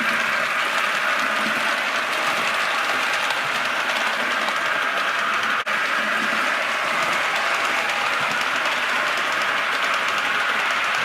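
Model Blue Pullman diesel train set running on the layout's track, with a steady mechanical noise of motor and wheels. There is a very brief break about halfway through.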